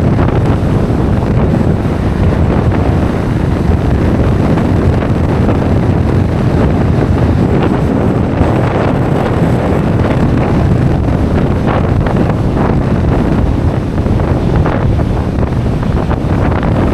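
Strong wind buffeting the microphone with a loud low rumble, over the wash of surf breaking on the beach.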